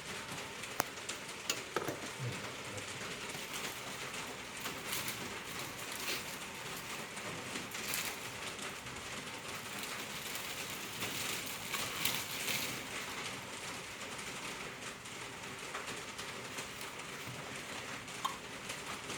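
Heavy rain falling, a steady hiss, with a few sharp clicks in the first couple of seconds.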